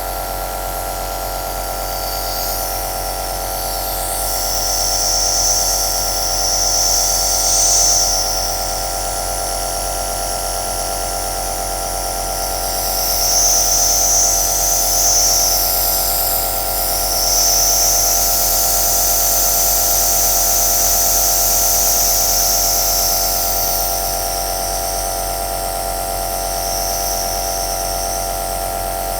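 Compressor nebulizer (aerosol machine) running steadily: an even electric motor hum with a high hiss of air and mist that swells and eases several times.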